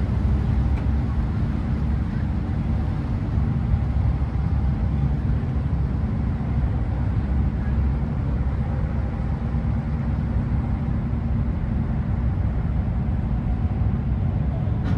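Car ferry's engine running: a steady low drone.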